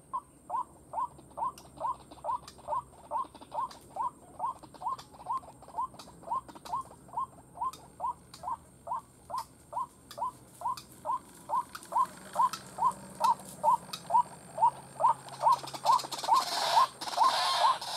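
White-breasted waterhen calls: a short falling note repeated steadily about three times a second, growing louder, with a rougher, noisier layer building up in the last few seconds.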